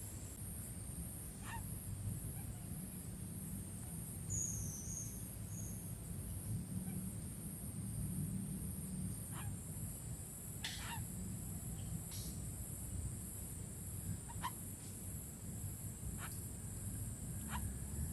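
Short, sharp bird calls, about eight of them at irregular intervals, over a steady high hum and a low rumble.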